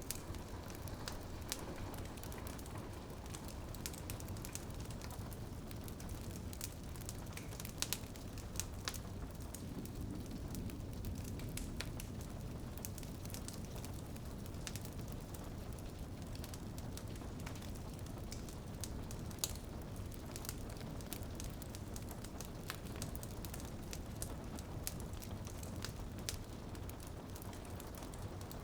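Wood fire crackling in a fireplace, with irregular sharp pops and snaps, the louder ones about 8 and 19 seconds in, over a steady low rumble of flames and rain on a window.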